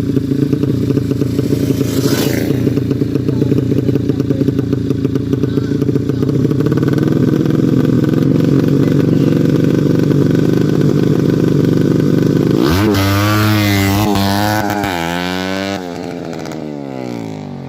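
A 200cc Yamaha Jupiter-based four-stroke single-cylinder drag-bike engine with a PWK Sudco 33 carburettor, running loud and steady at a fast idle. About three-quarters of the way in it is revved several times, the pitch rising and wavering, then falling back as the engine drops away.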